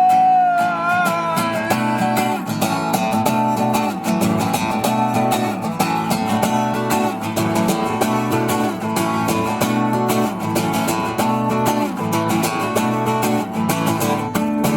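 Acoustic guitar strummed in a steady rhythm through an instrumental break in a song. A held sung note with vibrato trails off about a second and a half in.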